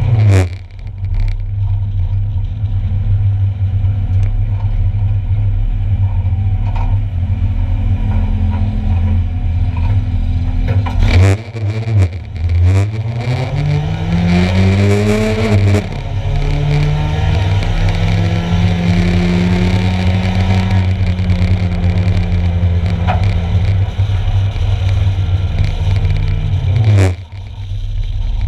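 1-litre stock car engines running at race speed. About halfway through, one engine's note climbs steadily as it accelerates, then drops and settles into a long steady drone.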